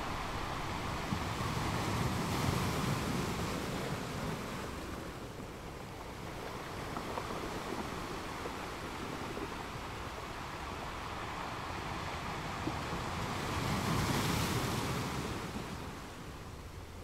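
Sea waves: a steady wash of surf with two larger waves swelling up, one about two seconds in and another near the end.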